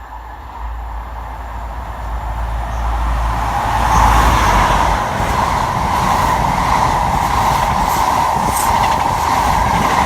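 A Virgin East Coast HST (InterCity 125) diesel train passing through the station without stopping. Its noise builds over the first four seconds as it draws near, then holds as a steady loud rush of engine and wheels on rail, with a few faint clicks.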